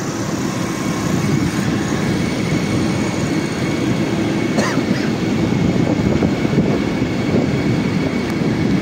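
Steady rumble of a moving passenger train heard from an open coach window, with wheel and track noise and wind, and one short click about four and a half seconds in.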